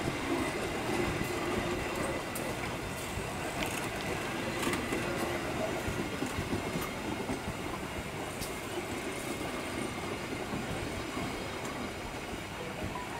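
Indonesian passenger train coaches rolling past at close range, a steady rumble of steel wheels on the rails with scattered sharp clicks over the rail joints. The train runs smoothly over freshly repaired flood-damaged track.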